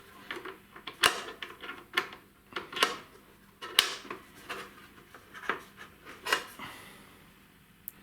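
Irregular sharp clicks and light knocks of small metal and plastic parts being handled: the wire-feed drive roller being fitted onto its shaft in a flux-core welder's wire compartment. About six distinct knocks over several seconds, dying away near the end.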